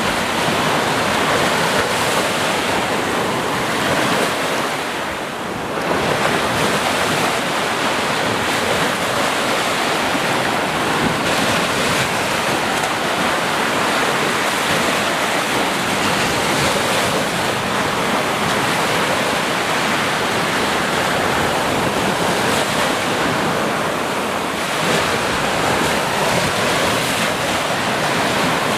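Sea waves: continuous surf washing in, with a brief lull about five seconds in.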